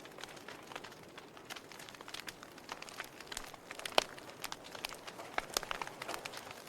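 Wood fire burning in a fireplace: logs crackling with irregular sharp pops over a soft hiss, one louder pop about four seconds in.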